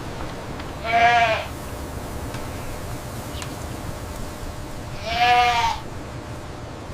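A goat bleating twice, two short pitched calls about four seconds apart, over a steady low background hum.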